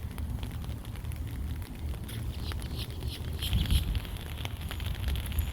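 Light rain pattering in scattered small taps over a steady low rumble, with a louder bump about three and a half seconds in.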